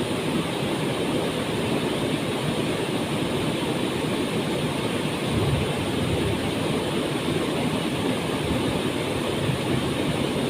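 Waterfall pouring steadily into its pool, a constant rushing of falling water.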